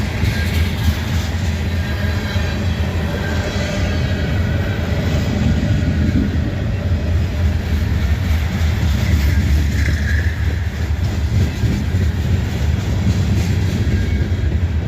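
Freight cars of a manifest train rolling past at track side: a steady, loud low rumble with wheel clatter over the rail joints.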